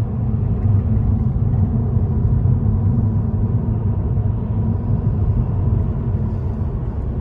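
Steady low rumble of a car driving along a road: engine and tyre noise at an even speed.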